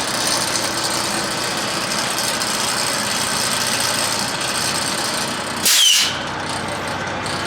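Heavy diesel engine running steadily, with a short high squeal falling in pitch about six seconds in.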